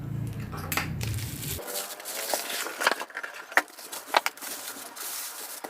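Packaging being handled as a shipping package is opened: crinkling and rustling with several sharp clicks and snaps, the loudest about three to four seconds in.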